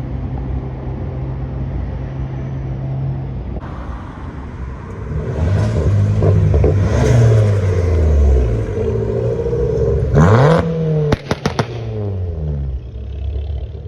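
Car engines at a car meet: a steady engine note, then engine notes dropping in pitch as a car passes. About ten seconds in, an engine is blipped in a quick rising rev, followed by several sharp cracks as the revs fall away.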